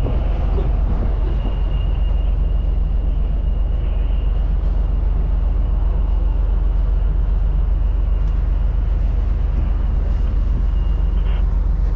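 Strong wind rumbling steadily on the microphone, with a thin, steady high whine that cuts off near the end.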